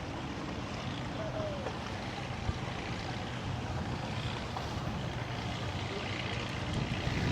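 A distant motor running with a steady low drone. There is a single faint click about two and a half seconds in.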